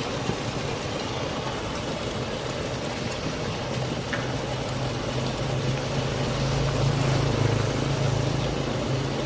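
A motor vehicle's engine running with a low hum that grows louder from about halfway through, over a steady rush of floodwater.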